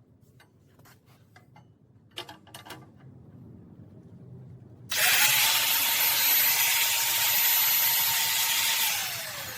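A few light tool clicks and knocks, then a power tool starts suddenly about five seconds in and runs at a steady whine for about four seconds before spinning down with a falling pitch.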